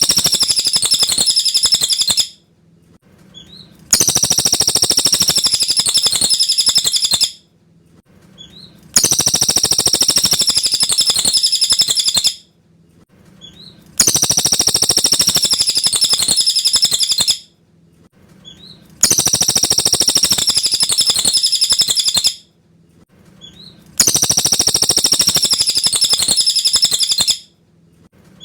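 Cililin songbird singing a clear, high-pitched, rapid phrase about three seconds long, repeated identically every five seconds as a looped master recording, with a short faint note in each gap.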